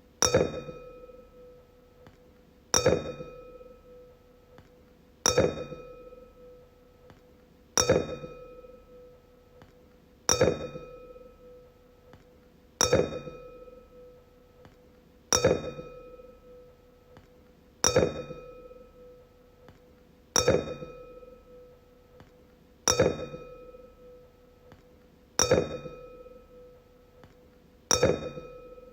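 A wine glass struck again and again, about once every two and a half seconds, twelve times. Each tap rings out in a clear tone with higher overtones, fading over a second or two before the next strike.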